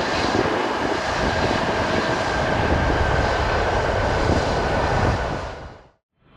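Jet airliner on final approach, its engines making a loud, steady rush with a whine held on a couple of steady tones; the sound fades out a little over five seconds in, and another stretch of jet noise begins just before the end.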